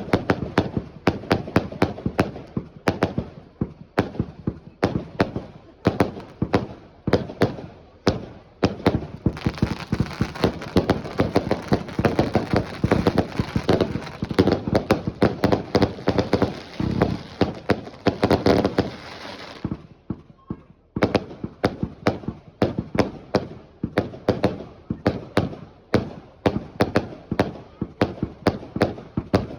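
Fireworks going off in rapid strings of bangs and pops. About a third of the way in they thicken into a dense crackling stretch lasting about ten seconds, then after a brief lull the separate bangs start again.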